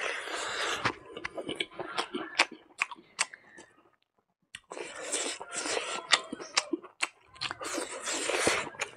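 A person chewing a mouthful of rice and silkworm larvae close to a clip-on microphone: wet smacking with many sharp clicks and crunches. The chewing stops briefly about four seconds in, then starts again.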